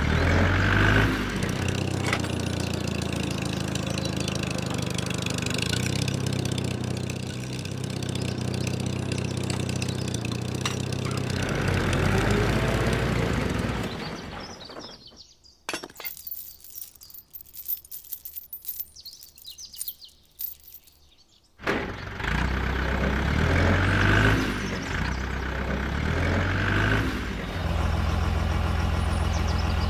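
A motor running with a low, uneven pitch that shifts up and down. It cuts out about halfway through for roughly seven seconds, when only scattered clicks are heard, then runs again.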